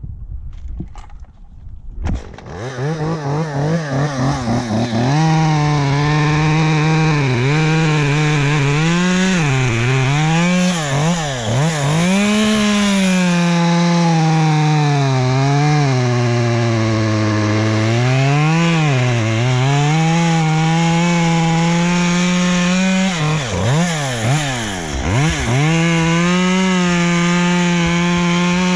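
Two-stroke chainsaw starting up about two seconds in. It then runs with its engine speed rising and falling as it is throttled up and eased off, and drops low briefly near the end before revving again.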